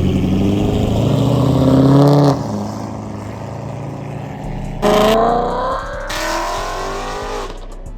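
Performance car engines revving and accelerating away one after another. One engine climbs in pitch for about two seconds and then backs off; about five seconds in, another car comes in suddenly loud and rises in pitch as it pulls away, then fades.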